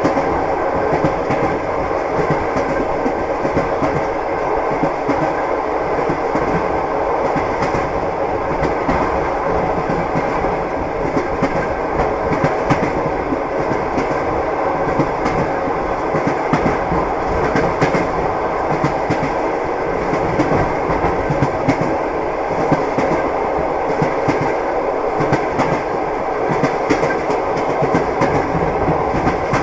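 A moving train's wheels clattering over the rails: a steady rumble with sharp clicks scattered through it.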